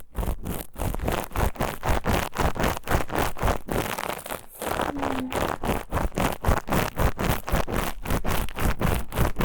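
Fast, even scratching strokes, about five a second, rubbed directly on the ear of a KU100 dummy-head microphone, with a brief pause about four and a half seconds in.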